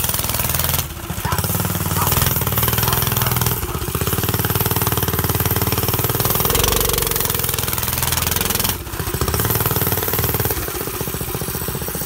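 Go-kart engine running loud through a motorcycle exhaust as the kart is driven, a fast even pulsing. The throttle comes off briefly about a second in and again near nine seconds, each time dipping the sound before the engine picks back up.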